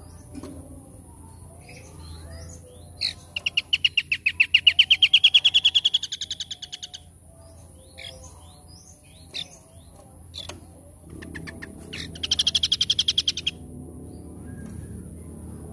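A songbird singing rapid trills: a long rattling trill of about ten notes a second, rising slightly in pitch, a few seconds in, and a shorter trill near the end, with scattered short chirps in between.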